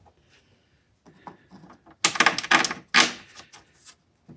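Metal hand tools clattering as they are handled, a burst of rattling and clinking about two seconds in that lasts just over a second.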